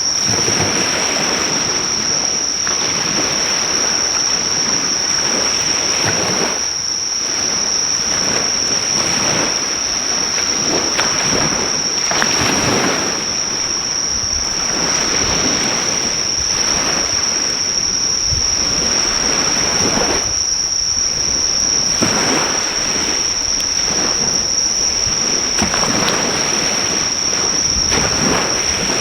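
Sea waves breaking and washing on the shore in repeated surges, over a continuous high-pitched drone of insects calling. Now and then there is a faint crackle from a driftwood fire.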